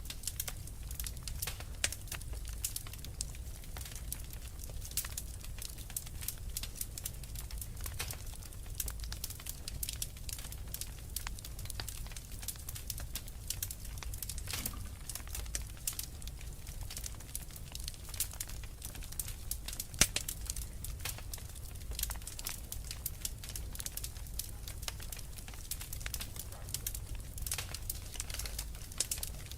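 Wood fire crackling: a constant run of small irregular snaps and pops over a steady low rumble, with a few sharper pops along the way.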